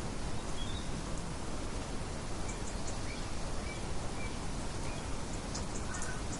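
Nature ambience: a steady rushing background with scattered short, faint bird chirps and a few light high ticks.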